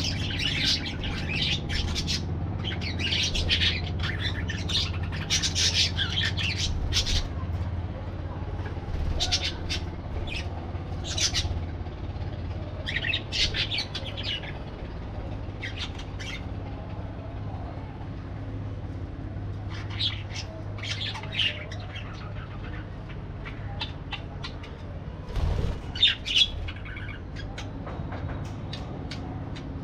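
Parakeets chattering and squawking in irregular bursts of sharp, high calls, over a steady low hum. A low thump about three-quarters of the way through.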